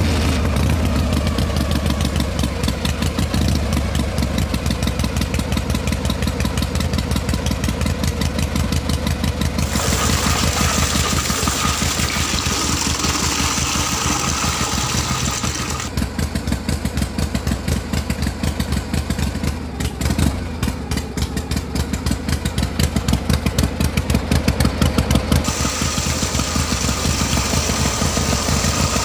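A small engine running steadily with a rapid, even beat; its tone changes abruptly about ten seconds in and again around sixteen and twenty-five seconds.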